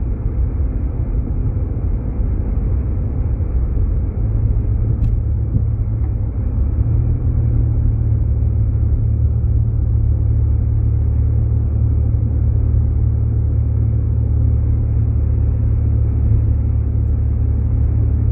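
Steady low road and engine rumble heard inside a Jeep Grand Cherokee's cabin as it drives, with one short click about five seconds in.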